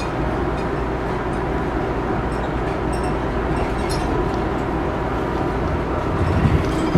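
Steady rumble and rattle of a moving Amtrak Empire Builder train, heard from inside the café car, with a few faint clicks scattered through it.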